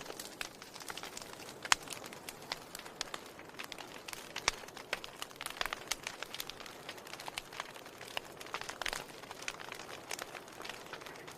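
Wood fire in a fireplace crackling: irregular sharp crackles and occasional louder pops over a soft hiss.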